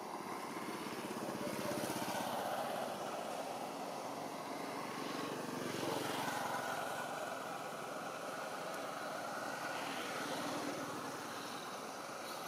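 A motor vehicle engine running, swelling and easing in level.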